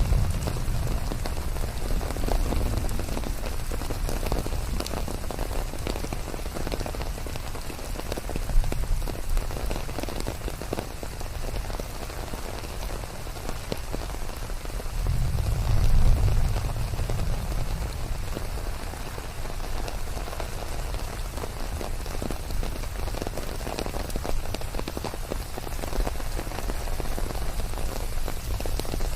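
Steady forest rain: a dense patter of drops over an even hiss. A low rumble swells about halfway through, then fades.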